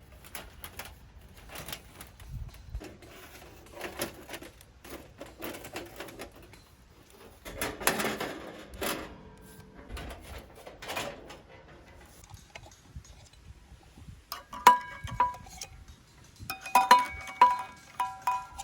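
Irregular rustling and clattering of things being handled, with light clinks. About fifteen seconds in, plucked-string music starts.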